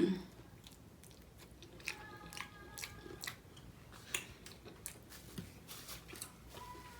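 Close-miked chewing of a homemade ground-turkey burrito: soft, irregular wet clicks and mouth smacks.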